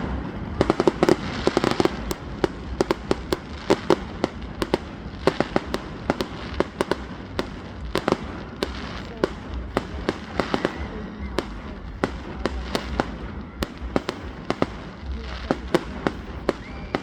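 Fireworks going off: an irregular run of sharp cracks and pops, several a second, throughout.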